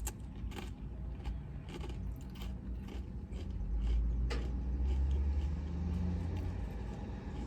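Low rumble of a car heard from inside the cabin, swelling about four seconds in, with scattered short clicks over it.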